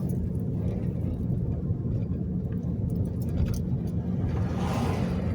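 Steady low rumble of a car being driven, heard from inside the cabin, with a brief rushing hiss that swells up near the end.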